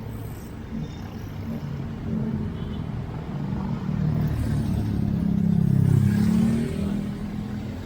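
Street traffic: a motor vehicle's engine passes close by, growing louder to a peak about six seconds in and then fading.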